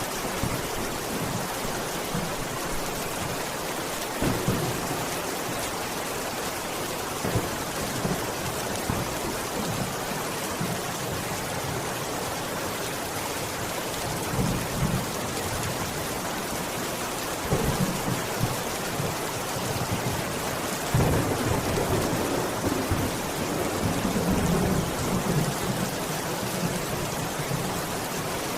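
Steady heavy rain falling, with low thunder rumbles swelling several times, the longest and loudest rolling on for about four seconds past the two-thirds mark.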